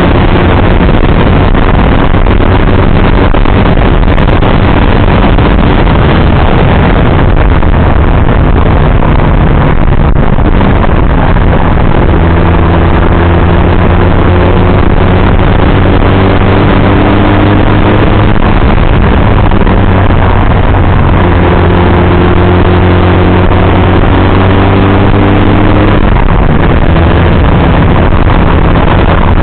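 Motorcycle engine running on the move under heavy wind noise on the microphone. The engine note climbs slowly twice, from about twelve seconds in and again from about twenty-one seconds in, as the bike pulls through the gears.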